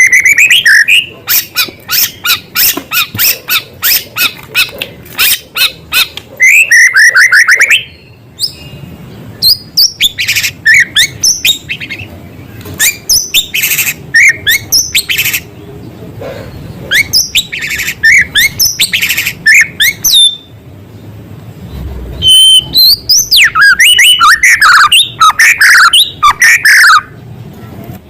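White-rumped shama (murai batu) singing loudly, with phrases copied from small birds' calls. Runs of rapid, sharp repeated notes alternate with fast sliding whistles, broken by a couple of short pauses.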